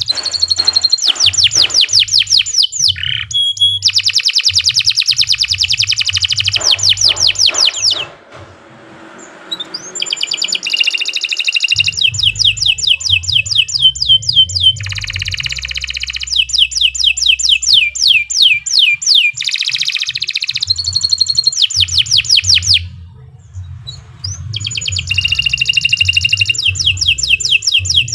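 Domestic canary singing long, fast rolling trills: runs of rapidly repeated high, sweeping notes, broken by two short pauses about eight and twenty-three seconds in.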